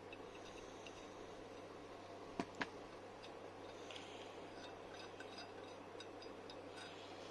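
Light clicks and small ticks of hand work on car brake parts, with two sharper clicks close together about two and a half seconds in, over a steady low hum.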